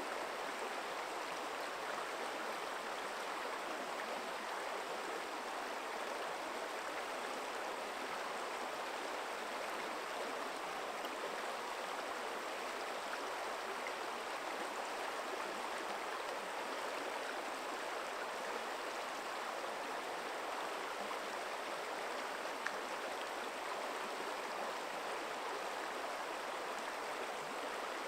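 Forest stream flowing: a steady, even rush of water, with a single faint tick about three-quarters of the way in.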